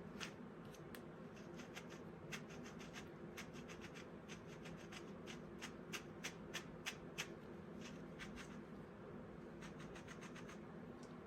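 Irregular light clicks, ticks and rubbing of hands handling small objects, with a few louder clicks about halfway through, over a steady low hum.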